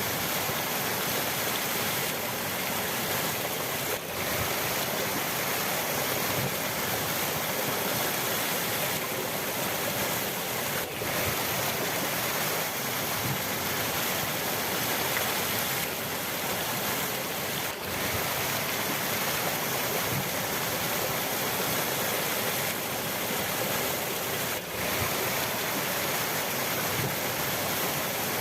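River water rushing, a steady full rush of flowing water that never lets up.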